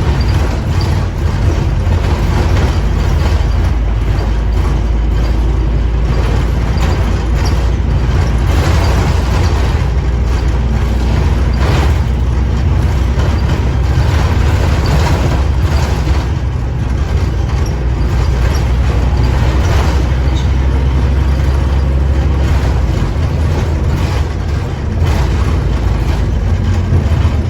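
Scania OmniCity bus with its diesel engine running, a loud deep rumble with noise and rattles over it. The low rumble eases off somewhat near the end.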